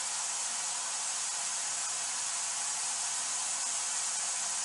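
Steady white-noise hiss from a white noise device, left running as a background for catching EVP spirit voices.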